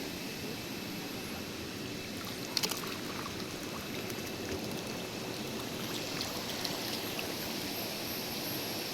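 Running water of a rainforest stream, a steady rushing flow, with a faint steady high-pitched tone above it and a brief clatter of clicks about two and a half seconds in.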